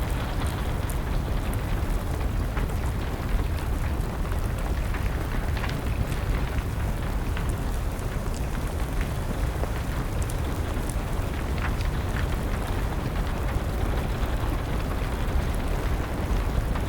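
Steady rain with a deep low rumble underneath, dotted with scattered sharp pops and crackles of a wood fire.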